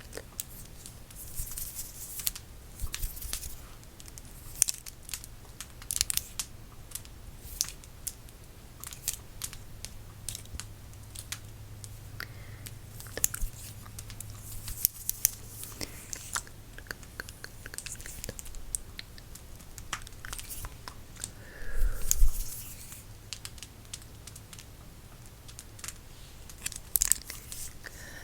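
Crackling fire: scattered small pops and crackles, with a few louder rustling swishes, the loudest about 22 seconds in.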